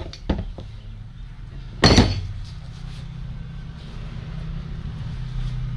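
A short, loud knock about two seconds in, then a vehicle engine running steadily with a low hum that grows slightly louder.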